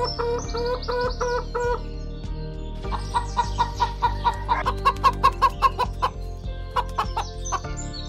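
Chickens clucking: a string of short pitched calls in the first two seconds, then a quick run of clucks, about four or five a second, growing louder in the middle.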